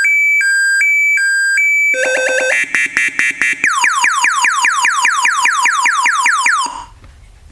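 Motorcycle speaker set's built-in alarm sounding loudly through the speakers: a two-tone alternating beep, then a quick warbling tone about two seconds in, then fast falling 'pew' sweeps about six a second, which cut off near the end.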